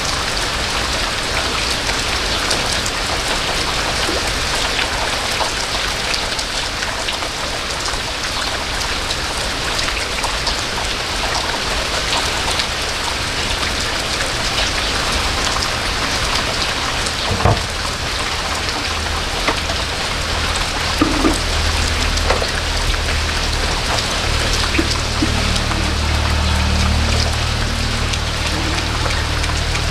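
Steady rain falling, a dense even hiss, with sharp taps of single drops striking close by, the clearest about two-thirds of the way through. A low rumble rises underneath in the last third.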